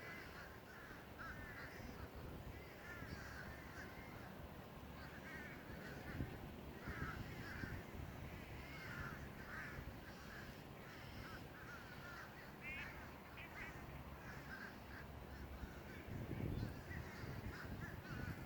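Crows cawing over and over, many short calls overlapping, over a low steady rumble.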